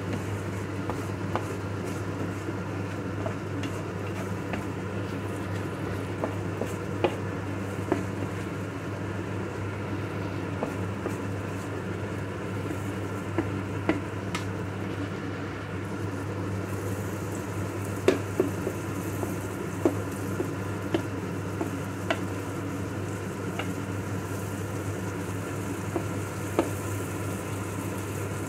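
Sliced chorizo, garlic and paprika sizzling steadily in an electric paella pan, with scattered sharp clicks and scrapes as a slotted spatula stirs them.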